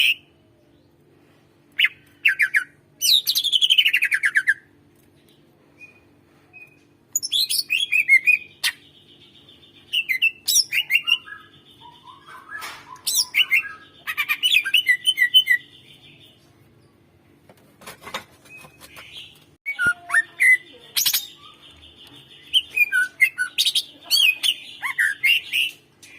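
Greater green leafbird (cucak ijo) singing in loud phrases of fast chirps, trills, falling slurred notes and held high whistles, with pauses of a few seconds between phrases.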